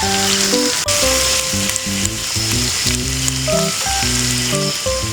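Meat frying with a steady, loud sizzle, over background music made of a simple melody of held notes.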